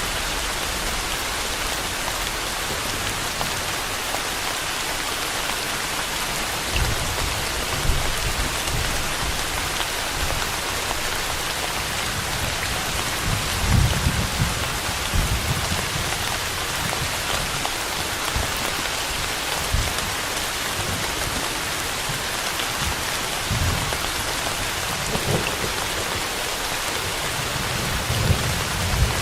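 Steady rain falling in an even hiss, with low rumbles of distant thunder coming in several seconds in, heaviest about halfway through and building again near the end.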